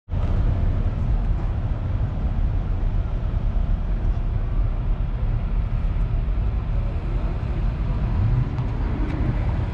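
Steady low rumble of distant car engines running at idle, with a faint rise in pitch near the end.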